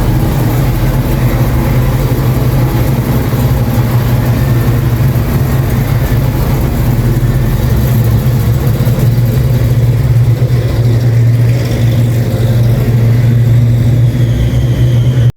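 Car engine running steadily, a loud, even low rumble.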